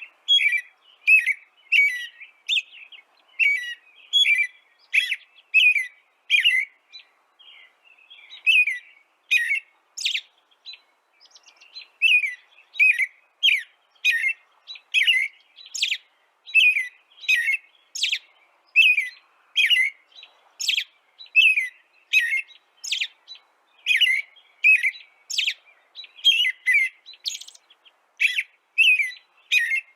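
A bird chirping over and over in short, evenly spaced chirps, about two a second, with short pauses about seven and eleven seconds in.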